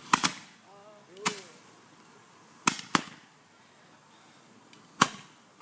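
Fireworks going off in a series of sharp bangs: a quick double crack at the start, a single bang about a second in, another double crack near three seconds, and one more bang near the end.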